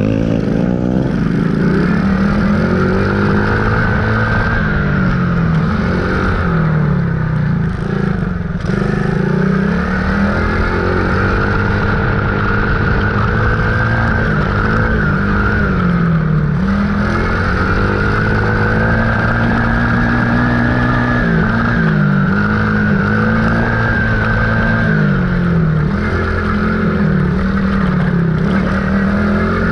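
Dirt bike engine running while being ridden, its revs rising and falling over and over as the throttle is worked.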